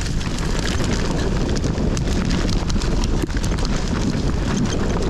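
Mountain bike riding fast down a dirt trail: wind buffeting the camera microphone, with a steady rumble from the tyres and many quick clicks and knocks as the hardtail rattles over rough ground.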